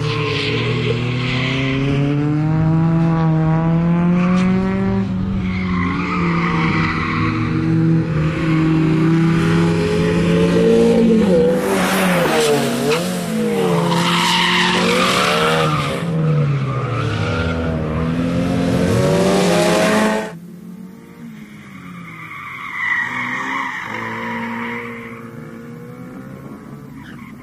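Opel Astra GSi's four-cylinder engine revving hard on a race track, its note climbing and falling with gear changes and throttle lifts. About twenty seconds in it drops abruptly to a fainter, distant engine sound.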